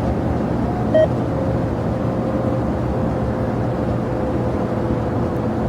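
Steady rumble of airliner jet engines at the airport, with a faint, slowly falling whine. A brief beep sounds about a second in.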